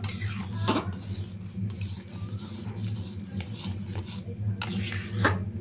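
A spoon clinking and scraping in a cooking pot, stirring mango pulp as it boils down for mango leather (aam satta), with several sharp knocks over a steady low hum.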